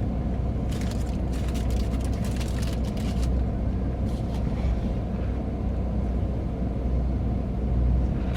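Steady low rumble of a car running, heard from inside the cabin, with a few faint clicks between one and three seconds in.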